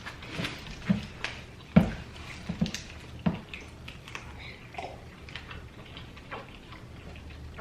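Close-up eating sounds of chicken wings being chewed: wet chewing and lip smacks, with scattered clicks and a few soft knocks in the first half. The loudest comes a little under two seconds in.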